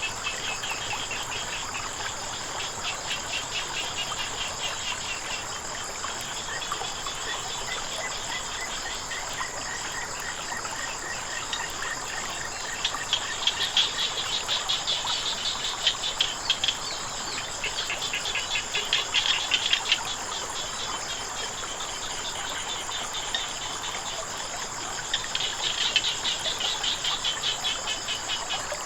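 Frogs calling in rapid pulsed bouts that swell and fade several times, over a steady high-pitched drone of crickets and insects and a faint hiss of running water.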